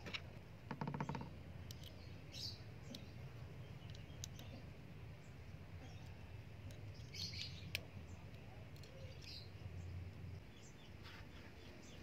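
Small birds chirping now and then, with a few light metal clicks from a stainless folding knife and an Allen key being handled, over a steady low hum.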